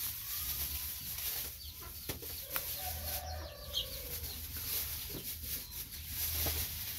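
Background bird calls: a few short clucks and chirps over a steady high-pitched hiss.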